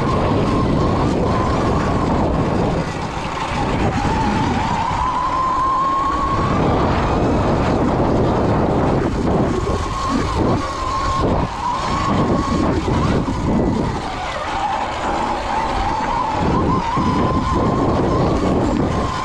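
Electric dirt bike's motor whining on the move, its pitch rising and falling as the rider speeds up and slows, over a loud rushing noise.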